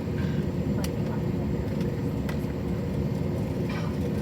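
Steady low rumble and hum of an Airbus A321 airliner cabin, with a couple of faint clicks.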